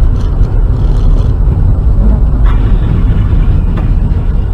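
Loud, steady low rumble of a car driving, heard from inside, with a couple of faint knocks.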